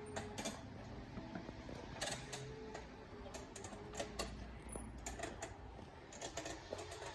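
Irregular clicks and taps at a store checkout counter, keys being pressed and items handled, over a low steady background hum.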